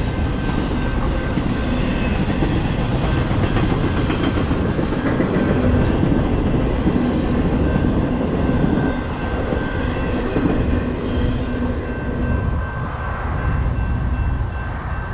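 Intermodal freight train with trailers on flatcars rolling past close by: a steady rumble of wheels on rail with a thin, steady whine running through it. It eases a little in the second half as the last cars go by.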